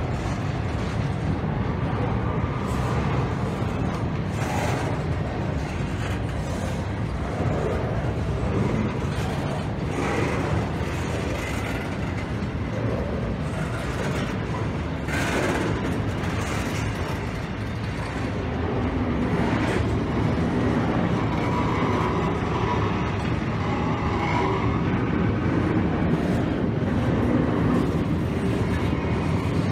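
An intermodal freight train's cars, loaded with trailers and containers, rolling past at close range: a steady rumble and rattle of steel wheels on the rails, with a few sharper knocks scattered through.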